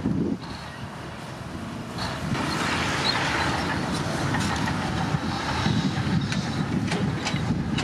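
Komatsu D65P crawler bulldozer's diesel engine running under load, with its steel tracks clanking. The sound grows louder about two seconds in.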